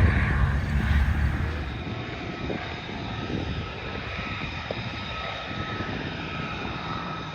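Fixed-wing airplane's engine drone as it flies past, loud at first and dying away over the first two seconds into a steadier, more distant drone.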